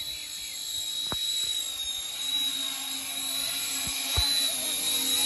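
Small RC Era C189 MD500-style RC helicopter in flight: a steady high-pitched whine from its motor and rotors over a hiss, getting slightly louder toward the end. A few faint clicks sound during it.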